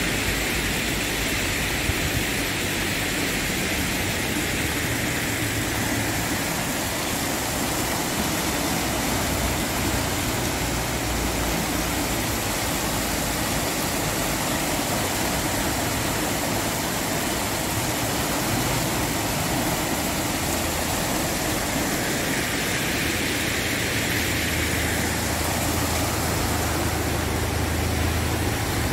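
Steady rain falling, an even hiss with no letup, over a low rumble that swells and fades, strongest near the end.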